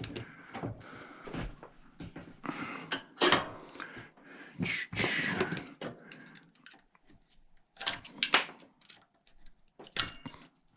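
Small pieces of scrap metal clinking and clattering as they are handled and sorted, with a handful of sharper knocks spread irregularly through the stretch.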